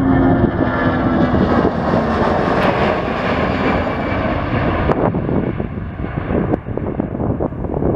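Jet airliner engines passing by, with a slight downward slide in pitch early on; the noise is loudest in the first few seconds and fades after about five seconds. Wind buffets the microphone.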